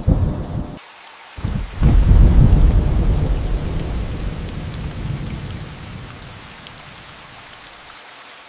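Steady rain falling, with thunder: a sudden burst right at the start, then a longer, louder rumble about two seconds in that slowly fades over the next few seconds.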